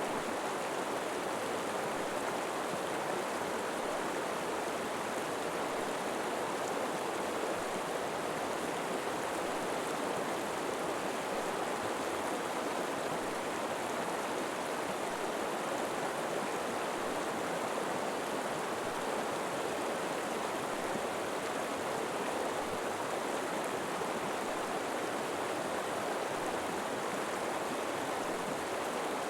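A river flowing steadily, an even rushing of running water with no changes.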